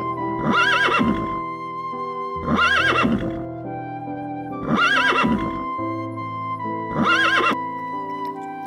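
A horse whinnying four times, about every two seconds, each call a quavering high neigh, over background music.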